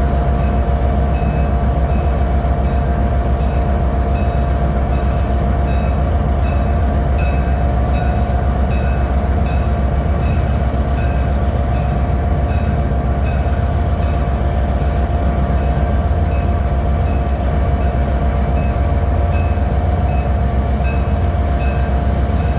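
Train locomotive engine running with a heavy, steady low rumble and a steady whine, while a bell rings steadily about once a second.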